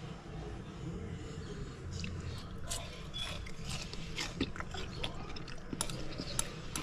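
A person chewing a bite of fried trout close to the microphone, with small clicks of a metal fork against a plate from about two seconds in.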